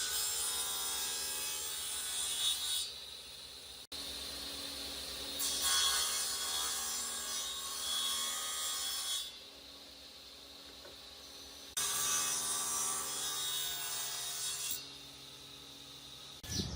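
A tool rubbing across wood in three long passes of about three to four seconds each, with quieter pauses and a faint steady hum between them.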